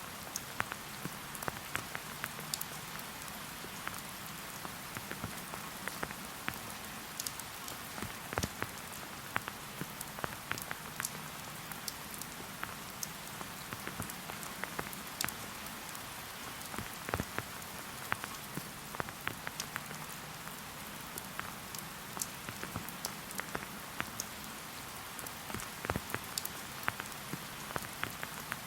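Steady rain falling, a constant hiss with many separate drops ticking sharply at irregular moments throughout.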